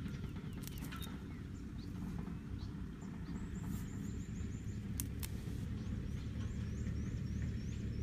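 A bird calling in short rising chirps, scattered at first and then repeating about twice a second near the end, over a steady low rumble. A few sharp clicks come about a second in and again about five seconds in.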